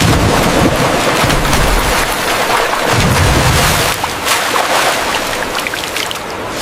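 Heavy splashing and pouring water, a dense rain-like patter that starts suddenly, with low rumbles near the start and again about three seconds in.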